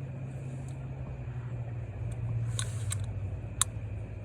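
Steady low hum with a short scraping rustle about two seconds in and a few sharp clicks, the loudest near the end, typical of parts and tools being handled in an engine bay.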